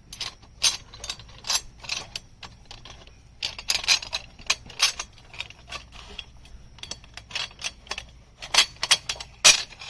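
Aluminum chainsaw mill parts and bolts clicking and clinking as they are handled and fitted together: irregular sharp metallic clicks, the loudest near the end.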